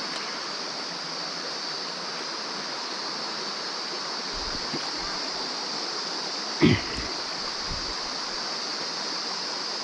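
Mountain stream running steadily over rocks, with a short knock about two-thirds in and a few brief low rumbles.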